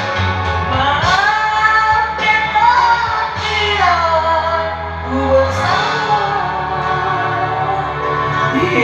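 A singer holding long, gliding sung notes with melodic runs over a music backing track with a steady bass line.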